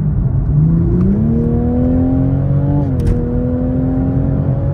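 Toyota Supra's 3.0-litre B58 turbocharged inline-six heard from inside the cabin, accelerating on the road. Its pitch rises from about half a second in, drops at an upshift about three seconds in with a short sharp crack, then climbs again.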